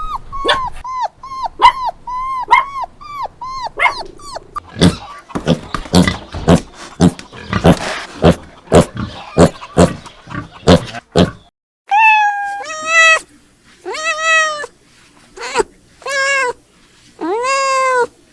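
A dog's rapid high yips, about three a second, then a run of short, sharp dog barks, then a cat meowing about six times in longer, drawn-out calls.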